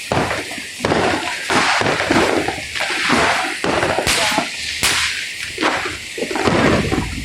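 Fireworks going off one after another: a dense run of bangs and crackles, a new one about every half second to second.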